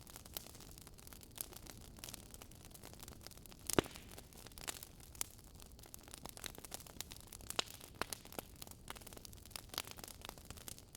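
Wood fire crackling in a fireplace: irregular pops and snaps over a soft hiss, with one louder pop about four seconds in.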